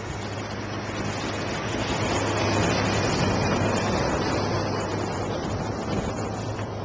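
A vehicle passing on a snowy street: a rushing noise that swells to its loudest about three seconds in and then fades.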